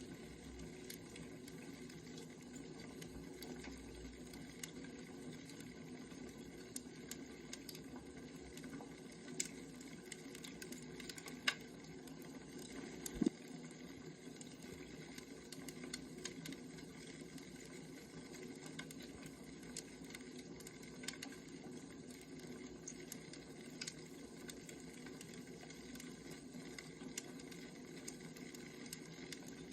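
Wood fire burning: a steady soft hiss with sporadic crackles and pops, a few sharper pops around the middle.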